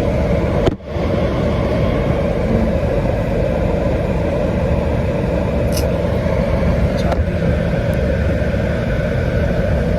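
Steady car-cabin noise, a continuous low rumble and hum from inside a car, with a brief dip about a second in.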